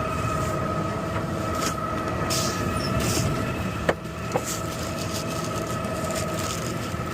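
Garbage truck's engine and hydraulics running: a steady whine over a low rumble, with rattling from the load and two sharp clicks about four seconds in.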